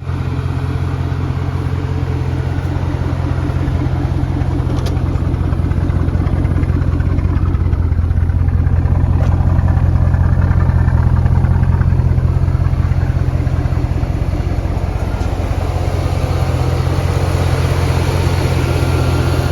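C5 Corvette's swapped-in 6.0-litre V8 running steadily at low revs.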